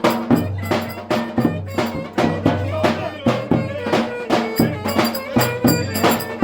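Turkish folk dance music (oyun havası): a drum beating a steady, driving rhythm under a melody line.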